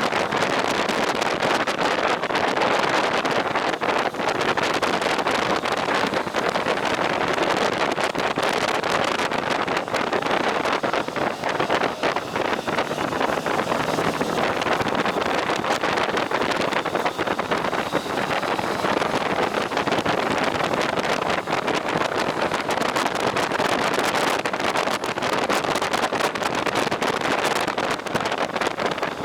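Steady wind rush buffeting the microphone over the road noise of a motorcycle riding at speed.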